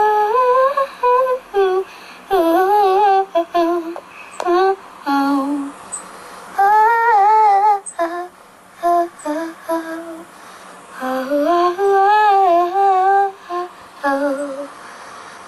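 A young girl humming a wordless tune in several short phrases, her pitch wavering up and down, with brief pauses between the phrases.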